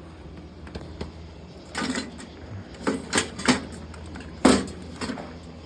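Half a dozen scattered knocks and rattles, the loudest about three quarters of the way through, as pieces of a wrecked ceiling fan are handled, over a steady low hum.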